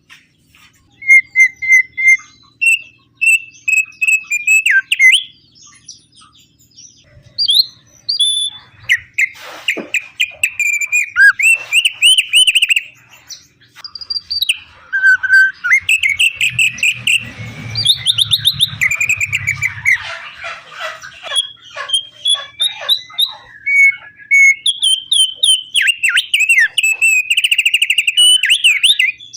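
An opior (opyor) songbird singing vigorously: fast chattering trills and short whistled phrases, repeated in loud bursts with brief pauses, the kind of full song played to spur caged birds into singing.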